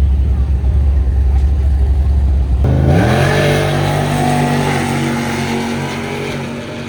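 Drag-racing car's engine rumbling low at the start line, then launching about two and a half seconds in: the engine pitch climbs quickly and holds at high revs as the car pulls away, growing fainter toward the end.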